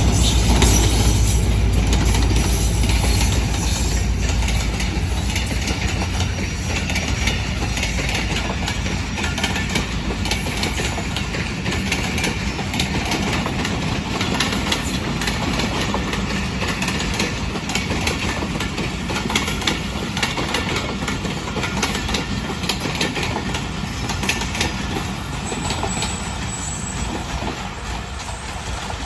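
Pakistan Railways HGMU-30 diesel-electric locomotive passing with a passenger train. Its engine's deep rumble is strongest in the first few seconds, then the coaches roll by with a steady clickety-clack of wheels over rail joints that slowly fades.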